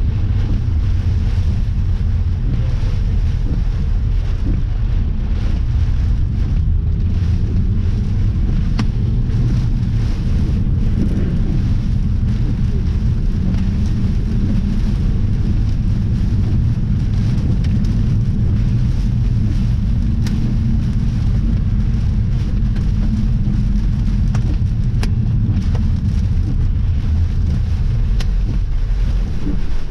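Strong thunderstorm wind rumbling steadily on the microphone, with rain behind it and a few scattered sharp ticks.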